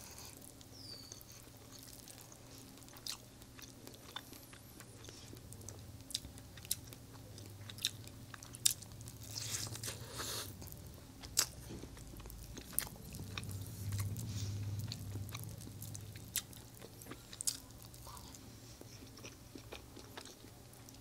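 Close-miked chewing of a soft, syrup-soaked rasgulla, with scattered short mouth clicks and a steady low hum beneath.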